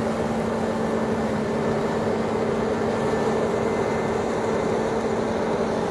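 New Holland CR9.90 combine harvester running steadily, a constant drone of engine and machinery with a steady hum.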